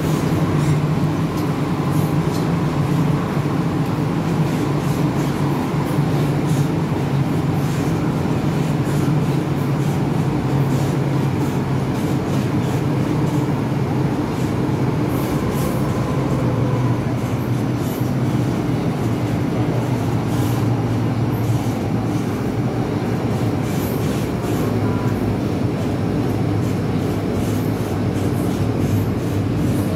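MTR M-Train electric multiple unit running at speed: a steady rumble of wheels and running gear with occasional faint ticks.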